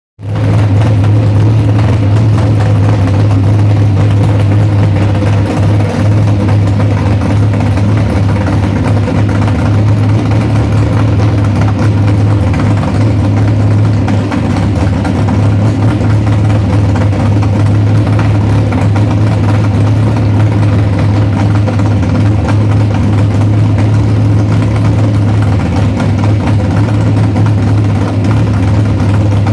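A newly installed hot rod engine running at a steady idle, its pitch even throughout.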